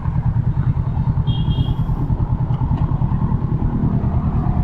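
Kawasaki Z650's parallel-twin engine running at low, steady revs with a fast, even pulsing rumble.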